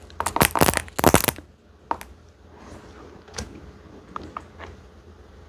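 Crunchy dessert being bitten and chewed close to the microphone: a loud run of crisp crunches in the first second and a half, then a few sparse crackles.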